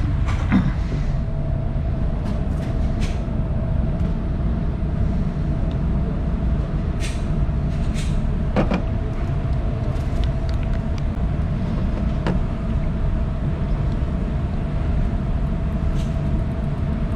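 Steady low rumble with a thin steady hum, broken by a handful of faint sharp clicks or cracks.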